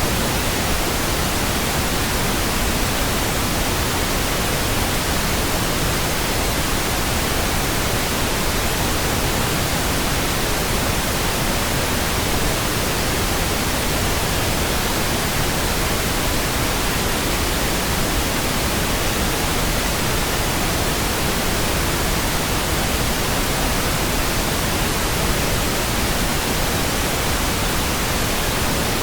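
Steady pink noise: an even, unchanging hiss spread across the whole range, with no tones, rhythm or sudden sounds.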